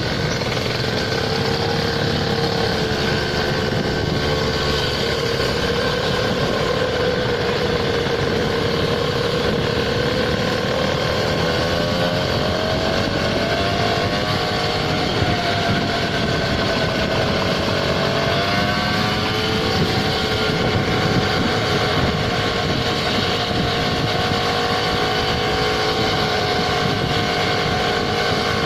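Small scooter engine running steadily under way over a rushing noise. The engine note wavers, rises a little about halfway through and drops back a few seconds later.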